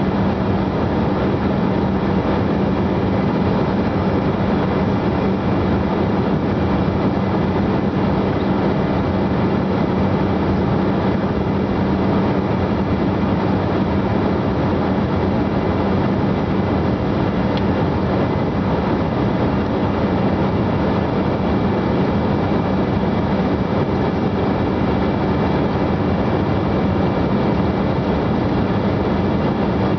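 Steady airliner cabin noise in flight: the even rush of engines and airflow with a constant low hum, unchanging throughout.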